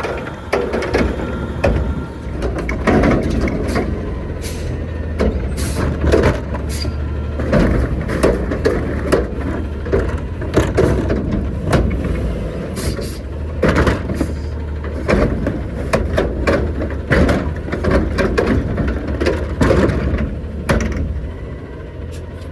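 Garbage truck engine running steadily while collecting, with many sharp bangs and clatter from the loading of trash.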